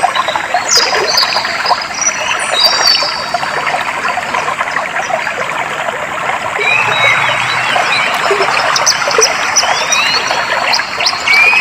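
Clear water flowing and trickling steadily, with birds calling over it: short high chirps in the first few seconds and a run of quick rising whistles in the second half.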